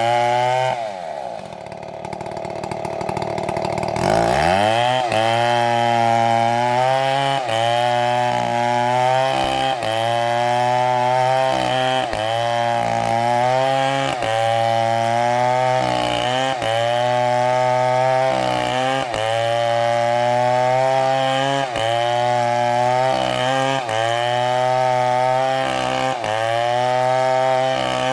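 STIHL two-stroke chainsaw engine. It drops in speed within the first second, revs back up about four seconds in, then runs at high speed with its pitch dipping briefly about every two seconds as it works through the cut.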